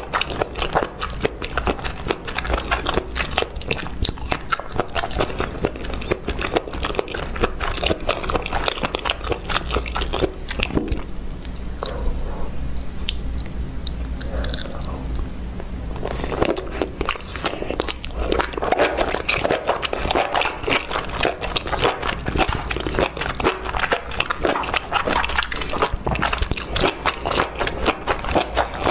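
Close-miked mukbang eating sounds: wet chewing, lip smacks and crunchy bites of spicy, saucy food, a dense run of rapid clicks that thins out for a few seconds about midway before the chewing picks up again.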